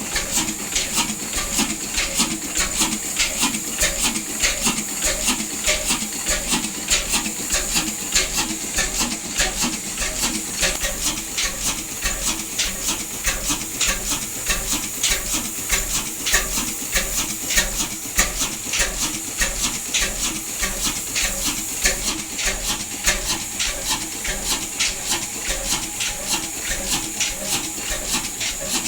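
Large stationary diesel engine running steadily with a fast, even exhaust beat.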